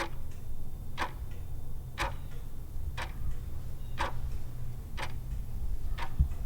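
Clock-tick sound effect counting down the answer time, one sharp tick a second over a steady low hum.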